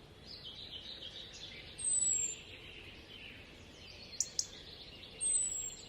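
Birds chirping, with a thin high whistle sliding downward twice, about three and a half seconds apart. Two sharp clicks come in quick succession a little past the middle.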